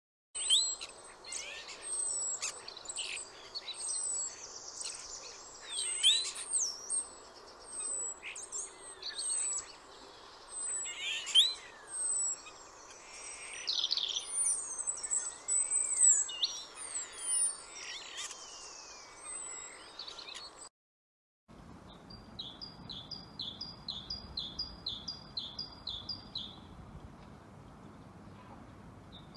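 Two songbird recordings in turn. The first is a varied song of quick whistles and sweeping high notes that stops about 20 seconds in. After a short silence, a second bird repeats a short high phrase over and over at an even rate.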